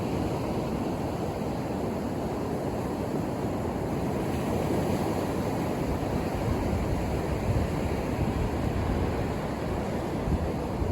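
Ocean surf breaking and washing onto a beach: a continuous rushing wash of waves that swells a little in loudness about halfway through.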